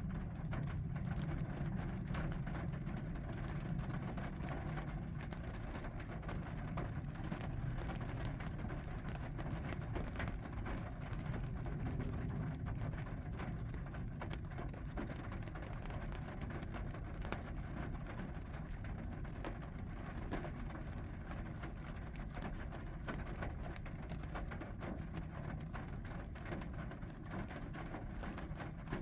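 Steady rain falling, many small drop ticks over a constant hiss, with a low rumble that is strongest in the first few seconds.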